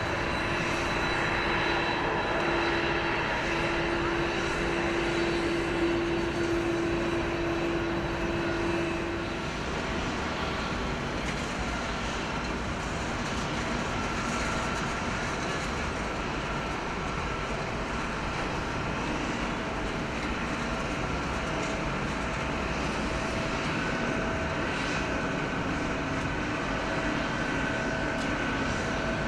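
Jet airliner engines running steadily: a broad rush with steady whining tones over it. One lower tone fades out about nine seconds in.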